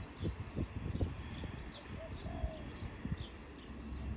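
Small birds chirping and twittering, with a high descending whistle about three seconds in and a few lower calls, over a steady low rumble and some low thumps near the start.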